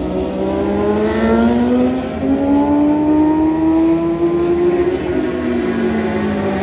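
Racing motorcycle engines under acceleration, more than one bike heard at once, their pitch rising steadily for several seconds and then dropping back about five seconds in, as at a gear change.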